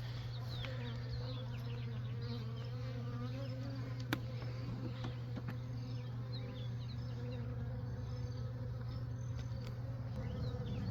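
Honeybees buzzing as a steady hum around an open nuc hive, with one sharp click about four seconds in.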